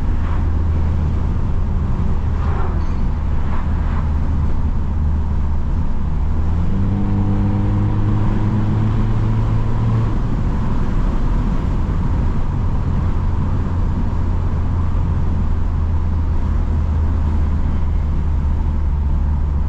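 Straight-piped BMW F30's exhaust droning steadily at cruise, heard from the driver's seat. About seven seconds in, the engine note steps up in pitch and pulls harder for about three seconds, then settles back to the steady drone.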